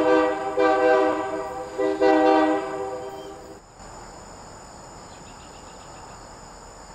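Train horn with several chime tones sounding together, blown in three blasts with short breaks; the last blast fades out about three and a half seconds in, leaving a steady faint hiss.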